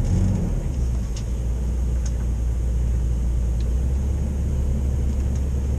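Motorhome engine running with a steady low rumble.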